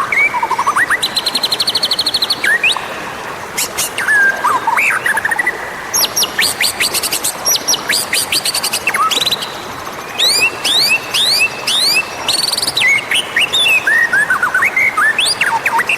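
White-rumped shama (murai batu) singing a varied, almost unbroken song of whistles, a fast high trill, and quick sharp notes that sweep steeply down in pitch.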